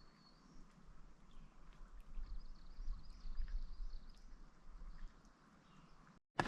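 Quiet outdoor ambience: faint, thin bird calls with a low rumble underneath, dropping out to silence for a moment near the end.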